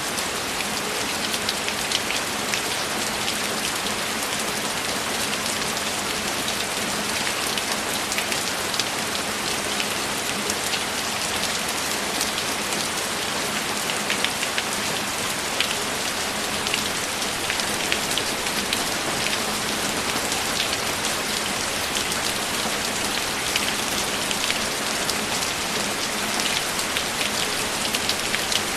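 Steady rainfall: an even hiss of rain with many individual drops ticking on a surface, no thunder.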